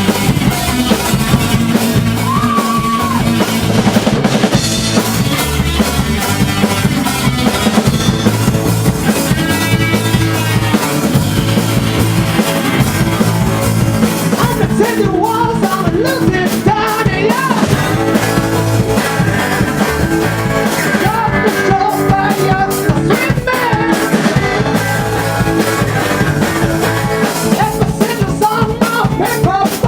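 A garage/psychedelic rock band playing live with drum kit, guitar and bass, with singing over the band.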